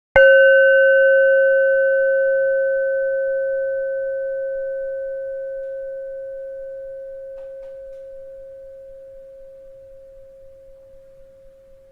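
A bell struck once, ringing with a clear low tone and a few fainter higher overtones that die away first, the ring fading slowly for about twelve seconds until it cuts off.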